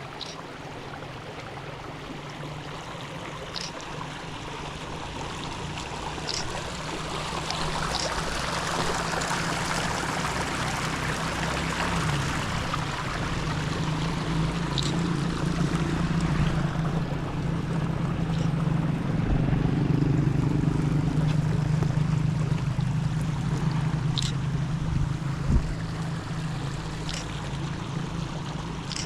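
Water of a stream running steadily, a continuous rushing that grows louder toward the middle and eases slightly near the end, with a few short high chirps over it.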